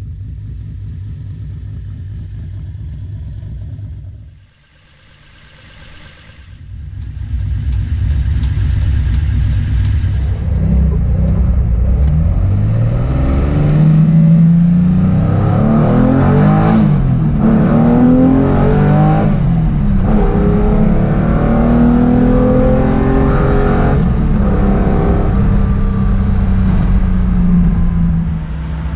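1973 Nissan Skyline's straight-six engine idling, heard at the twin exhaust tips, then heard from inside the cabin accelerating hard, its pitch rising and dropping back several times as it shifts up through the gears.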